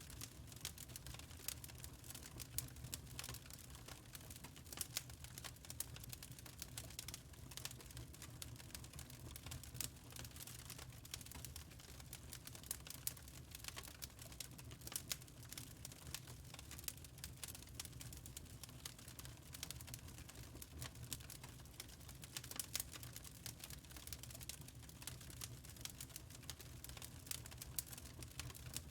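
Wood fire crackling: many small irregular pops and snaps over a low, steady rumble.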